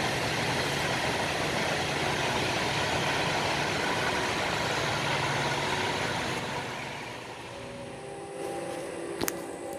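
CSX freight train rolling past, a steady rumble of cars and wheels on rail that fades about six and a half seconds in as the end of the train goes by. A sharp click comes near the end.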